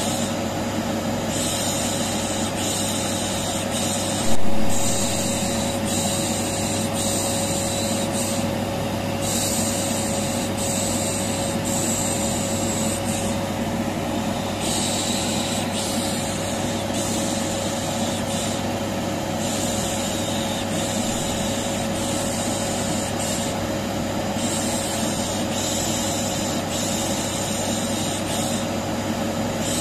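Vacuum cleaner running steadily with a constant hum, overlaid by a high 'shh' shushing hiss that drops out and returns every few seconds. A brief louder bump about four and a half seconds in.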